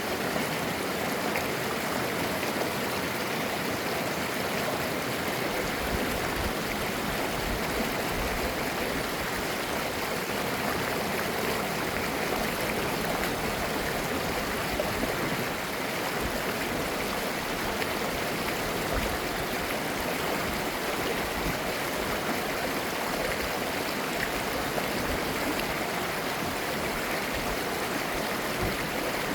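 Mountain stream flowing over rocks: a steady rushing and babbling of clear water.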